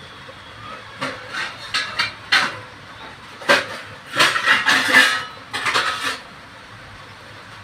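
Metal kitchen dishes and utensils clinking and clattering in a string of knocks. The clatter starts about a second in, is busiest with some ringing around four to five seconds in, and stops about six seconds in.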